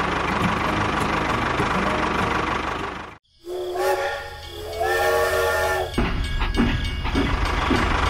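Tractor engine sound effect running steadily, cut off about three seconds in; then a steam locomotive whistle blows twice, a chord of several tones, followed by the low steady rumble of the train running.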